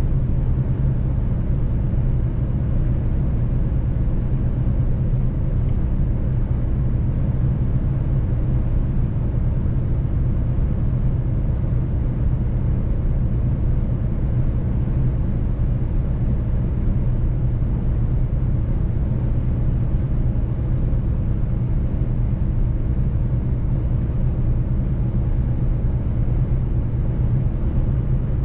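Mercedes-Benz truck driving on the road, its engine and running gear giving a steady low drone with no change in pitch.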